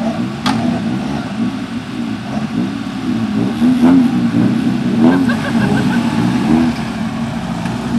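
Fiat Cinquecento rally car's engine heard from inside the cabin, revs rising and falling again and again as it drives a special stage. A sharp click about half a second in.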